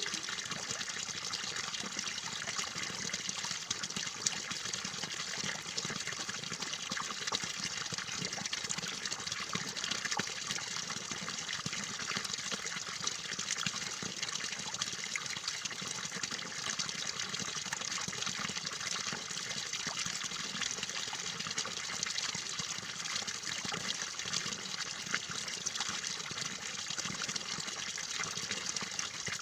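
Steady trickling, running water with small splashes and droplet clicks, played as a water-therapy track for cage birds.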